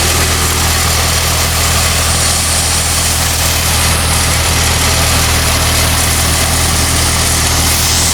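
Old Ford N-series tractor's four-cylinder engine idling steadily at low throttle, with the PTO engaged and driving a roller pump.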